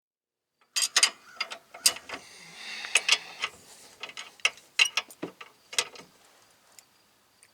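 Hand ratchet and socket clicking, with metal tool clanks, while a suspension nut is worked loose. The irregular sharp clicks start about a second in and die away near the end.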